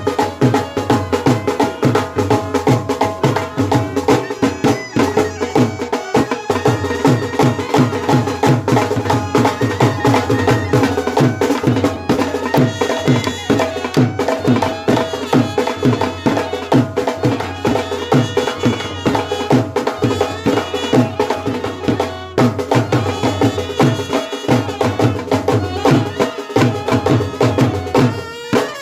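Brass band playing a melody of held horn notes over a steady drum beat of about two strokes a second.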